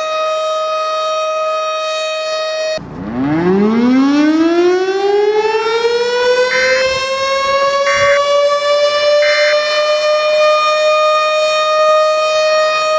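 A steady electronic tone, then about three seconds in a civil defense siren winds up: its pitch rises steeply from low and levels off into a sustained wail while the steady tone continues underneath. Three short, higher beeps sound about a second and a half apart in the middle.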